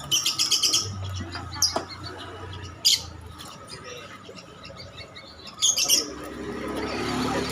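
A small bird calling: a quick run of high chirps at the start, single sharp calls a couple of seconds in, then another short burst of chirps near the end.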